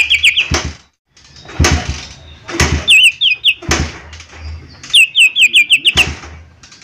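A cucak ijo mini (leafbird) calling in quick runs of five or six sharp, down-slurred notes, three runs in a few seconds. Short loud noises fall between the runs.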